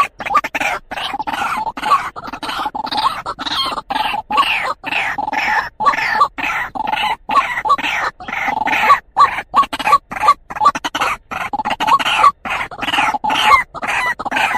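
White-breasted waterhen (truwok) calling: a loud, continuous run of short repeated notes with frequent abrupt breaks. It is the call used to lure male waterhens.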